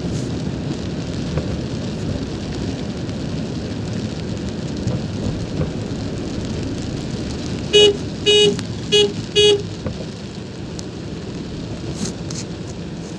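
Steady low rumble of a car driving in the rain, with rain on the vehicle. About eight seconds in, a vehicle horn gives four short toots.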